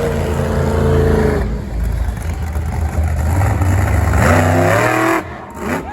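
A large truck engine revving: the pitch falls off over the first second or so, then climbs in a hard rev about four seconds in and cuts off suddenly a second later.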